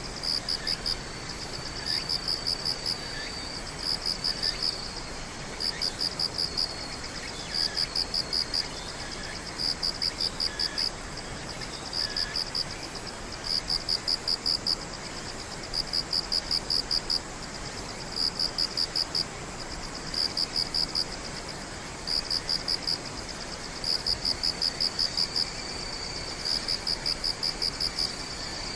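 Night insects singing: a cricket repeats short trills of rapid chirping pulses about every two seconds, over a thin steady high drone from other insects.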